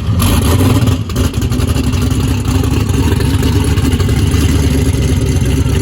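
Twin-turbocharged Chevrolet LS V8 engine running loud and steady, with a brief dip about a second in.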